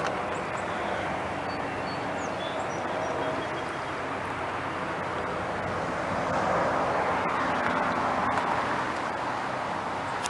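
Outdoor ambience of road traffic: a steady wash of tyre and engine noise that swells as vehicles pass, loudest about six to nine seconds in, with a few faint high chirps early on.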